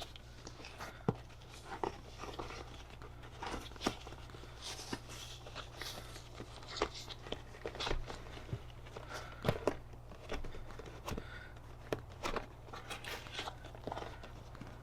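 Hands working a new vinyl seat cover over foam on a seat pan, tugging and smoothing it tight: irregular small clicks, taps and rustles, over a steady low hum.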